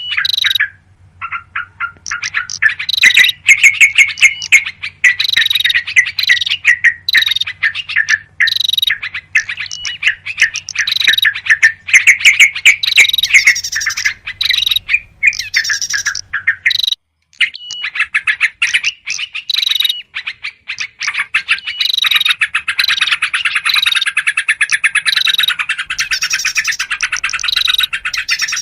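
Recorded bird-lure track of agitated yellow-vented bulbuls (trucukan) scolding, mixed with other small songbirds such as prinias: dense, rapid chirps and chattering trills with short breaks. A faint steady hum from the recording runs under the first half and stops partway through.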